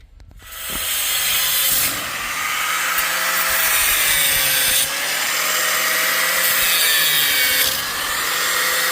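Electric power saw cutting through wood. The motor's whine dips and recovers under load, and the sound starts about half a second in.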